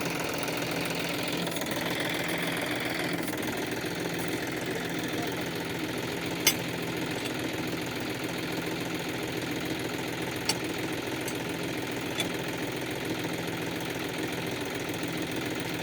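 John Deere 5405 tractor's diesel engine running steadily, with a few sharp clicks, about six and ten seconds in and again near twelve.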